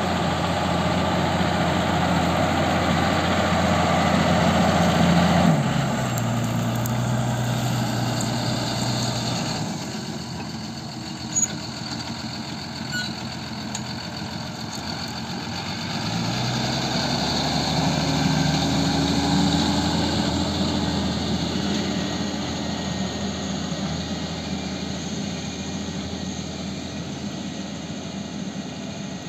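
Claas Arion 620 tractor's six-cylinder diesel engine running. It drops to a lower speed about five seconds in and picks back up about sixteen seconds in, with one short sharp knock during the lower-speed stretch.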